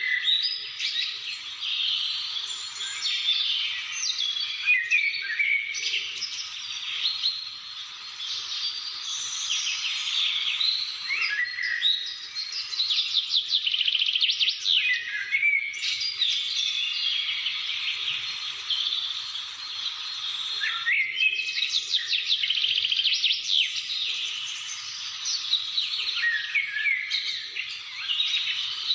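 A dense chorus of many small birds chirping and trilling at once, with quick rising and falling notes, almost without pause.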